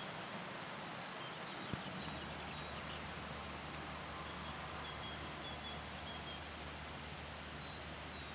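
Small birds calling in a forest: repeated short, high chirps and brief falling whistles over a faint steady hiss. A soft click about two seconds in, after which a faint low hum runs underneath.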